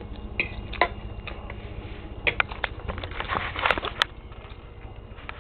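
Someone eating with a fork, with a scatter of short clicks and scrapes of the fork against the dish, busiest about three to four seconds in.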